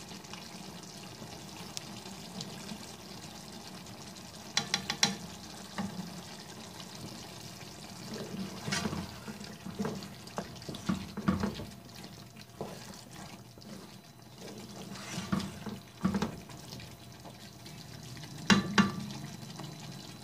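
Mutton curry sizzling in a wok as it is stirred with a wooden spatula, which scrapes and knocks against the pan at irregular intervals. A quick cluster of sharp clacks with a brief ring comes about five seconds in, and again near the end.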